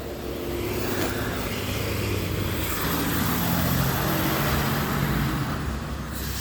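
A motor vehicle driving past on the street, its engine and tyre noise growing louder and then easing off, with a short knock near the end.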